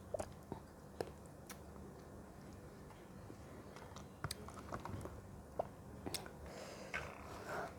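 Close-miked chewing of fruit, with a few sharp, crisp clicks scattered through and a wetter spell of chewing near the end.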